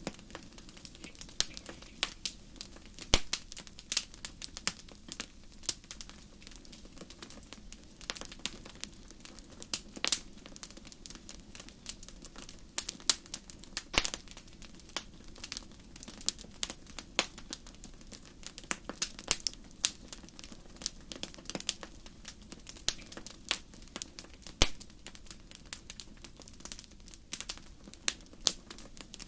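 Burning firewood crackling in a fireplace: frequent irregular sharp pops and snaps, a few louder ones, over a low steady rumble of the fire.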